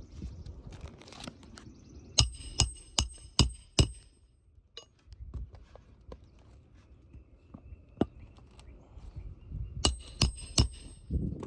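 Hammer blows ringing on metal on a shingle roof: five quick strikes about half a second apart, a single strike, then three more near the end.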